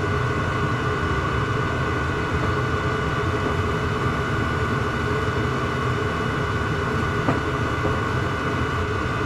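Diesel parking heater running steadily: a low burner rumble with the blower's steady whine over it. A single short click about seven seconds in.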